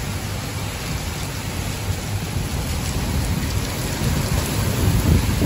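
Torrential rain pouring down in a storm: a steady, dense hiss over a loud, fluctuating low rumble.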